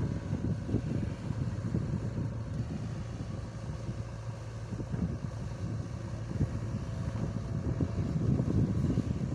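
Heavy diesel engine running steadily with a low drone, with wind noise on the microphone.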